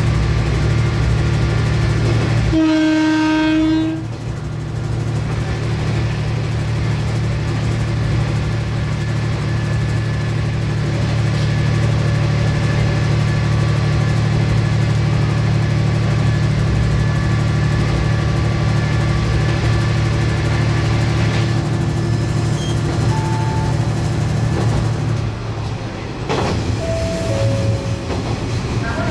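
Diesel railcar running along the track, its steady rumble heard from the front of the cab. The train horn sounds one blast of about a second and a half, a few seconds in.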